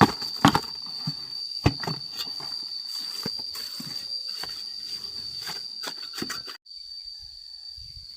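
Insects chirring in one steady high-pitched drone, with a run of sharp knocks and clicks over it that stop abruptly about six and a half seconds in.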